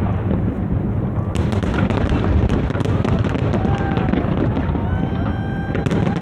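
Large fireworks display: a continuous rumble of shell bursts overlapping one another, with many sharp crackles through it.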